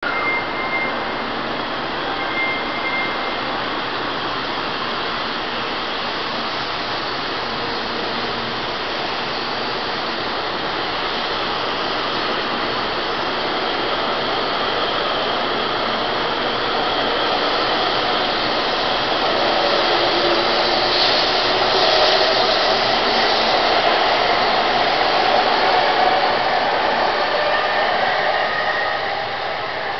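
Taiwan High Speed Rail 700T bullet train pulling out of the station: a steady rush of running and air noise that grows louder through the second half as the train gathers speed, with a whining tone from its drive. The noise falls off near the end as the last car passes.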